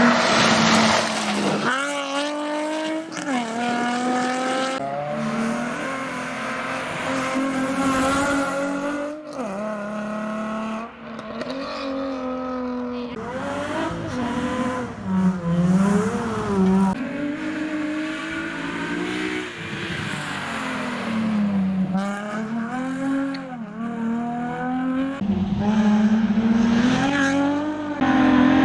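Nissan 350Z rally car's engine revving hard, its pitch climbing and dropping repeatedly as it shifts up and down through the gears.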